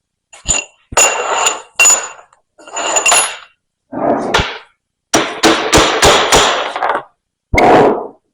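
Hammer striking the metal body of a hydraulic vane pump: a string of irregular blows with a ringing metallic note, including a quick flurry of strikes about five seconds in.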